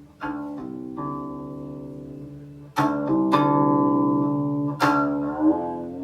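Guqin (seven-string Chinese zither) played solo in a slow, spacious melody. Single plucked notes ring out and sustain, louder from about three seconds in, and a sliding note bends in pitch near the end.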